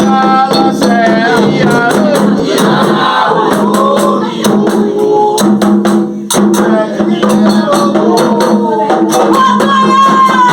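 Voices singing a melody over steady rhythmic percussion with a shaker-like rattle.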